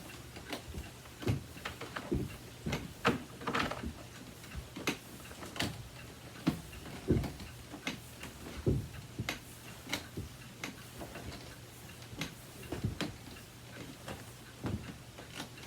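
Power cord being wound by hand onto the cord hooks on the back of a Bissell BigGreen Commercial upright vacuum: irregular light clicks and taps of the cord against the plastic body.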